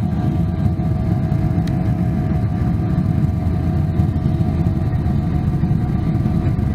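Cabin noise of a Boeing 777-300ER on its takeoff roll. Its GE90 engines run at takeoff thrust, giving a heavy, steady low rumble with a constant whine of fan tones on top.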